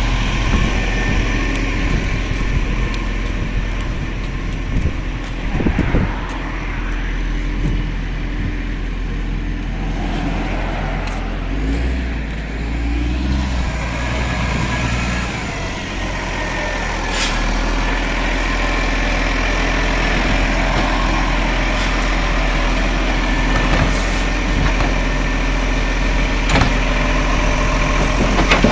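Garbage truck's diesel engine running steadily, with a deeper, heavier rumble for a few seconds about twelve seconds in and a few sharp clicks later on.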